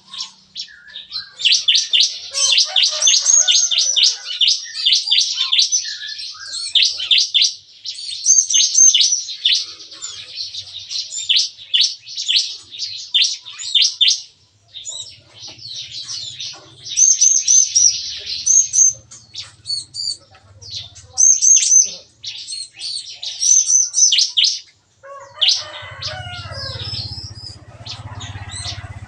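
Bar-winged prinias singing together, fast runs of sharp high chirps tumbling over one another in rapid-fire bursts with brief pauses. Near the end lower, warbling notes join in over a faint low hum.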